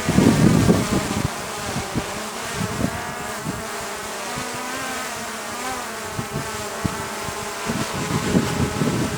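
Small DJI quadcopter buzzing as it hovers, its propeller pitch wavering up and down as it holds position against gusts. Wind buffets the microphone at the start and again near the end.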